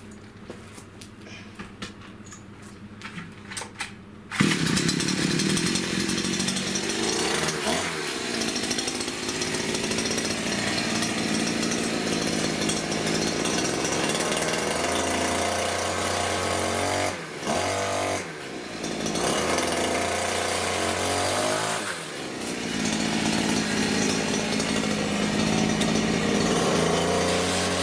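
Giantz 65cc two-stroke petrol pole chainsaw: a few light handling clicks, then the engine catches suddenly about four seconds in and runs loudly, revved up and down, dropping back briefly a few times before picking up again.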